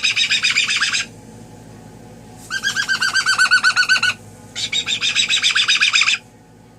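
Pet bird giving fast, evenly repeated chirping calls in three bouts of about a second and a half each. The first bout stops about a second in, and the other two follow after short pauses.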